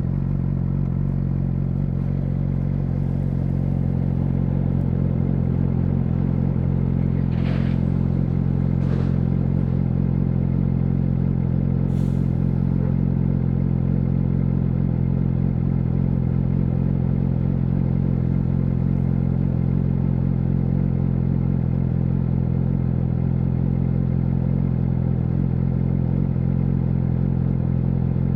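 Yamaha YZF-R6's inline-four engine idling steadily through an SC Project SC1-R aftermarket exhaust, the pitch holding level throughout. A few brief, faint hissing noises sound over it near the middle.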